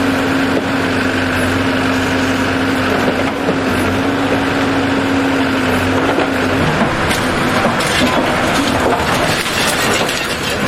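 An engine running with a steady hum. About two-thirds of the way in, the hum breaks off and a run of clattering knocks follows.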